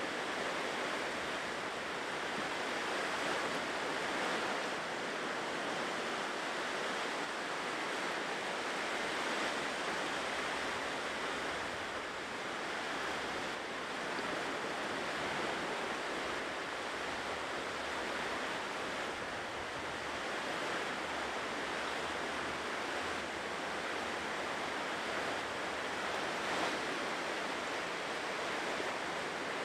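Ocean surf breaking and washing onto a shore: a continuous, steady rush of waves that swells and eases only slightly.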